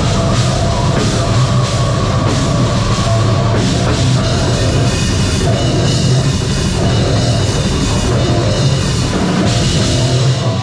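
Live metalcore band playing loud: distorted guitars and bass over a pounding drum kit with crashing cymbals. The music stops right at the end.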